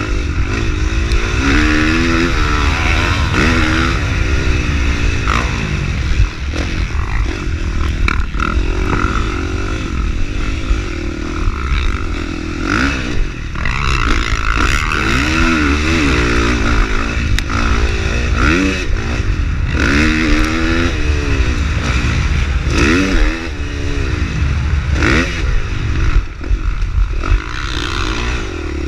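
450cc four-stroke motocross bike engine being ridden hard on a track, its pitch rising and falling every second or two as the throttle is opened and chopped through the gears. Knocks and clatter come through at intervals.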